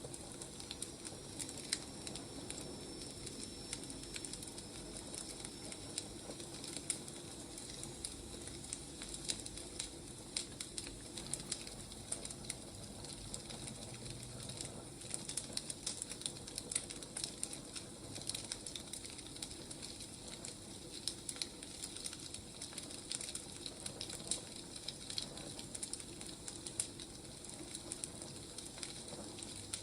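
Wood fire crackling, with frequent irregular sharp pops over a soft steady hiss.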